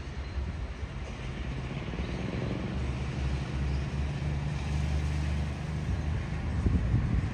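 Electric suburban passenger train running past with a low steady hum that grows a little louder, and a few short knocks near the end.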